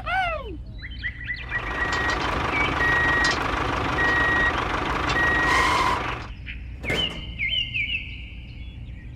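Vehicle reversing alarm beeping about once a second over a loud rushing noise, which stops about six seconds in. A high steady whistle with short chirps follows.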